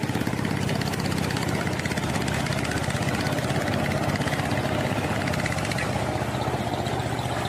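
A small engine running at a steady speed, with a fast even throb.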